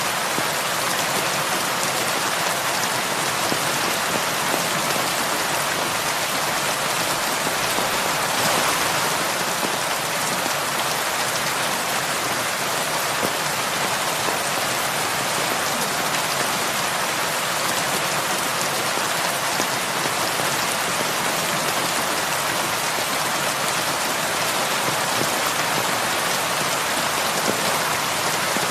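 Heavy rain falling steadily, an even hiss of drops on surfaces with no other sounds, swelling slightly for a moment about eight seconds in.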